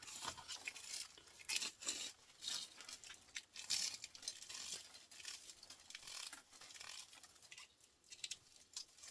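Fine copper winding wire being pulled and unwound from a small electric motor by hand, giving irregular scratchy rustles that come and go.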